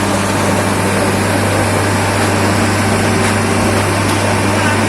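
An engine running steadily at an even pitch, typical of heavy track-renewal machinery at work.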